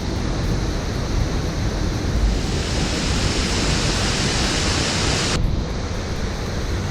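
Steady rushing of a waterfall in spate, swollen by heavy rain, with a low rumble of wind on the microphone. About five seconds in, the upper hiss drops away abruptly.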